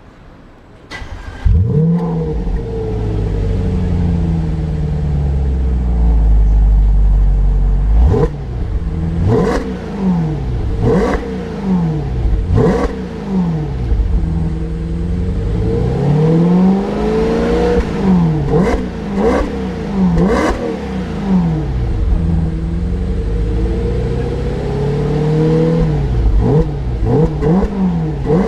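2014 Audi RS5's 4.2-litre V8 through a Milltek exhaust with an X-pipe. The engine starts about a second and a half in, idles with a deep rumble, then is revved over and over in quick blips and a few longer climbs and falls.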